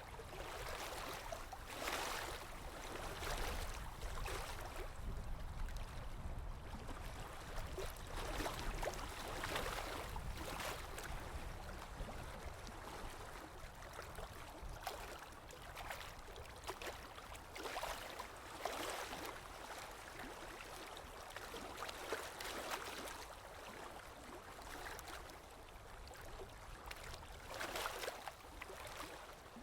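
Waves washing in: a steady hiss of water that rises in irregular swells every few seconds.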